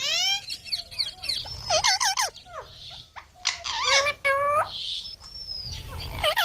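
Young green parrot calling in a rapid run of short, harsh chirps and squawks that sweep up and down in pitch.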